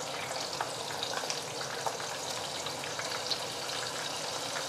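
Chicken-stuffed tahu walik (inside-out tofu) frying in hot oil for the second time: a steady sizzle with scattered small pops and crackles.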